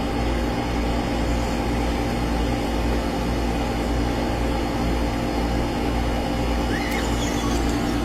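A steady low hum and rumble of a running motor, with a faint short rising squeak near the end.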